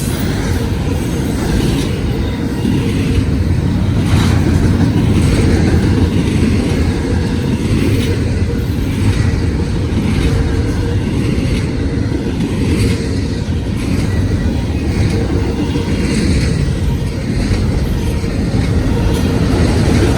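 CSX freight train passing at speed: a steady heavy rumble of rolling railcars, with wheel clacks every second or two over the rail joints and crossing.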